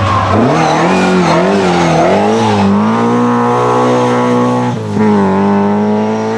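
Rally car engine revving hard, its pitch swinging up and down in the first couple of seconds, then held at high revs, with a brief sharp drop about five seconds in.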